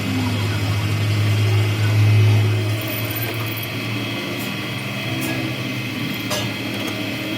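Steady low machine hum, loudest in the first three seconds, with a few sharp metal clicks from tools in the second half.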